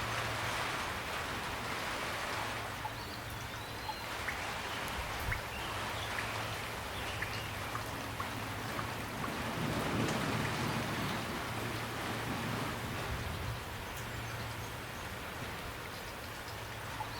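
Steady, calm rainfall with scattered individual drops ticking on surfaces.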